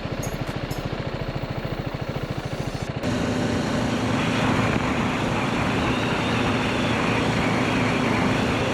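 Motorcycle engine running at low revs, its firing pulses coming evenly and separately. About three seconds in, the sound changes abruptly to riding at speed: a steady engine hum under wind rush.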